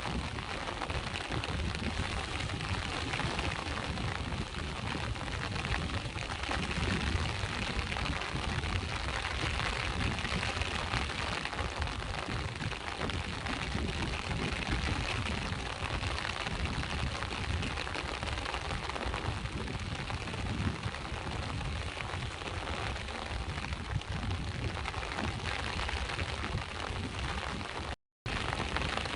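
Rain falling together with sea surf on the shore: a steady, dense hiss over a churning low rumble of the waves. The sound cuts out completely for a split second near the end.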